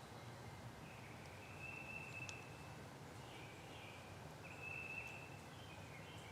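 Faint songbird trills in the woods: a run of high, even notes, each under a second long, repeated with short gaps over a faint low background rumble.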